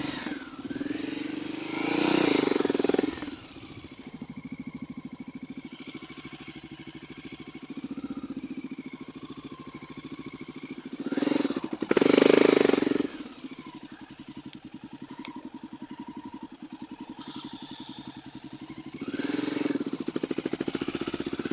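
Dirt bike engine running at low speed over rough ground. It picks up three times with bursts of throttle: about two seconds in, about halfway through, and again near the end, dropping back to a steady low running note in between.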